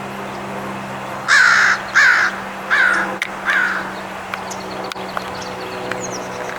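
A bird giving four loud calls in quick succession, evenly spaced about two-thirds of a second apart, over a steady low hum.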